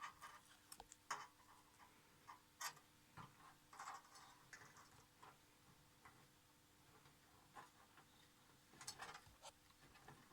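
Faint, irregular small clicks and short rustles of hands working: LED modules with double-sided tape backing being set and pressed into place one after another on a TV's back panel.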